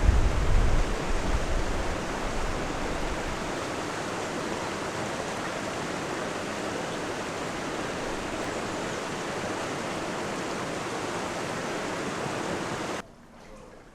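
Floodwater rushing, a steady, even noise of fast-flowing water. A heavy low rumble in the first few seconds fades out, and the sound cuts off abruptly near the end.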